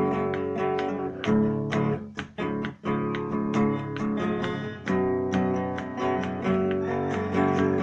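Acoustic guitar music strummed in a steady rhythm, with sustained chords.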